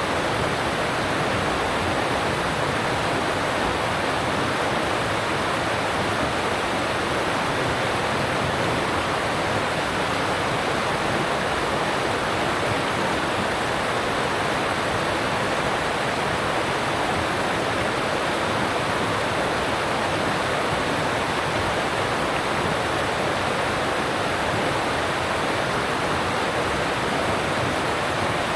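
Alpine mountain stream rushing over rocks, a steady, even rush of water with no breaks.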